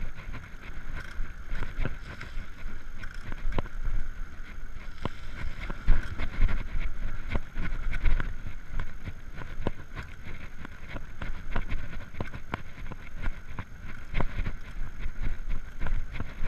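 Riding noise from an electric bicycle climbing a steep hill: a steady rumble of wind and road on the microphone, with many irregular sharp clicks and rattles from the bike.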